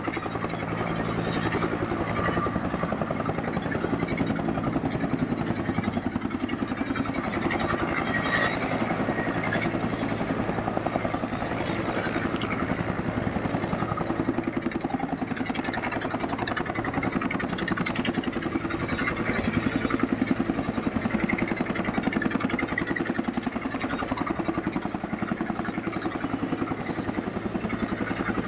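Helicopter running steadily close by, its rotor making a fast, even chop over the engine's sound.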